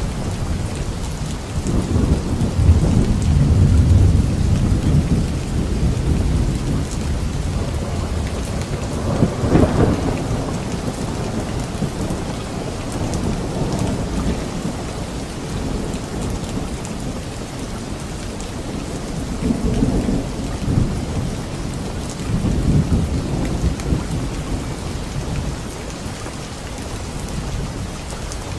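Steady rain falling, with rolling thunder: a long low rumble in the first few seconds, a sharper thunderclap about a third of the way in, and softer rumbles later on.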